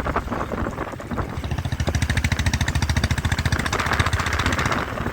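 Motorcycle engine running steadily while riding, its firing pulses coming rapid and even.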